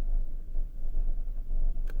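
A vehicle driving along, a steady low rumble with a short click near the end.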